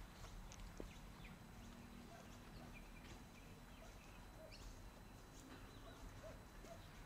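Quiet open-air ambience with faint, scattered bird chirps and short calls.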